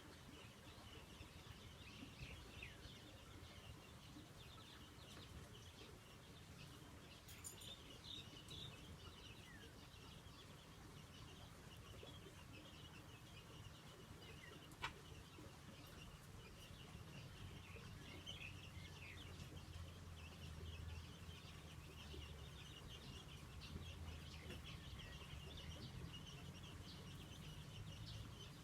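Faint outdoor ambience of small birds chirping and calling, over a low steady rumble. A single sharp click comes about halfway through.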